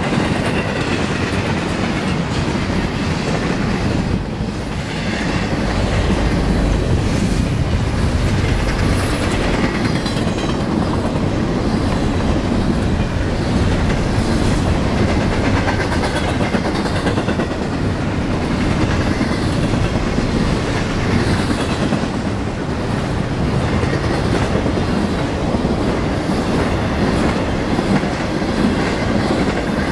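Intermodal freight train of double-stack container well cars and trailers on flatcars rolling past, its steel wheels rumbling steadily on the rails.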